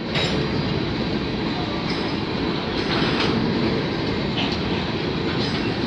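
Covered hopper cars of a CN freight train rolling past: steady rumble and clatter of steel wheels on the rails, with a few clicks.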